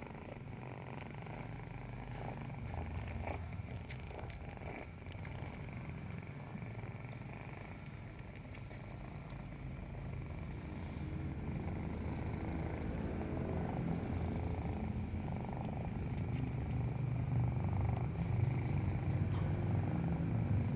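Nursing kitten purring steadily, the purr growing louder in the second half.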